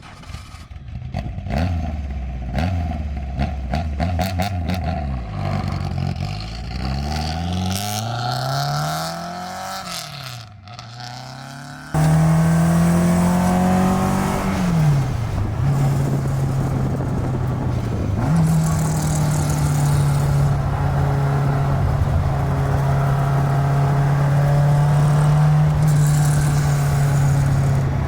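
1965 Alfa Romeo Giulia Super's twin-cam four-cylinder engine heard from inside the car while driving, its pitch climbing and falling repeatedly through acceleration and gear changes. About twelve seconds in the sound jumps abruptly louder; the engine pulls up, drops for a shift, pulls up again and then holds a steady cruise.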